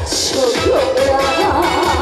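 Live upbeat trot medley: band backing with a steady driving beat under a bending melody line.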